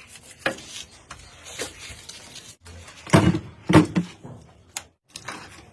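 Irregular knocks and clatter of hard objects being handled, with two louder thuds about three and a half seconds in.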